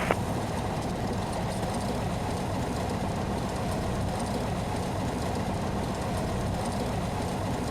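Cessna 172SP's four-cylinder Lycoming IO-360 engine running steadily at low taxi power, a low even drone.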